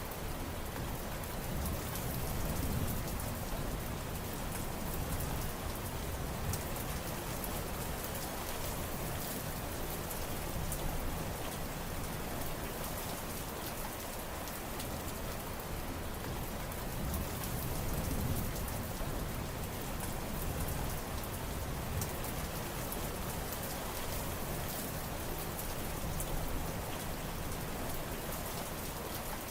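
Steady rain falling and pattering on surfaces, with low rumbles swelling a few seconds in and again a little past halfway.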